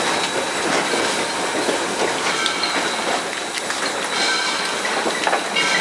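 Steam locomotive Southern Railway 630, an Alco 2-8-0, heard from inside its cab while running: a steady rumble and hiss of the engine and running gear with scattered clanks, and high ringing tones about two seconds in and again from about four seconds on.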